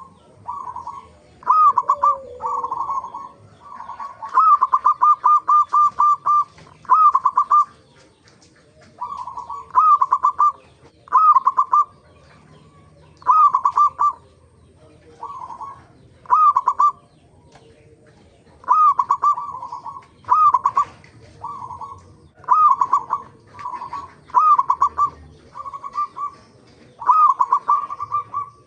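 Zebra doves (perkutut) cooing: repeated short phrases of quick, rippling coo notes following one another every second or two, with a couple of brief pauses.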